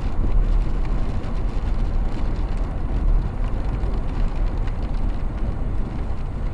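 Steady low road rumble of a chase vehicle driving, heard from inside the cab.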